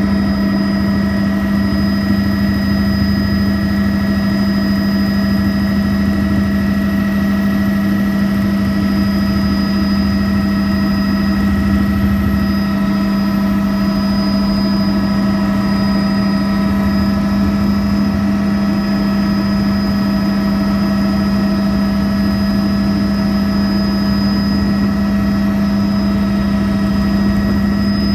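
Helicopter in flight: a constant engine and rotor drone with a strong low hum and several steady higher whines.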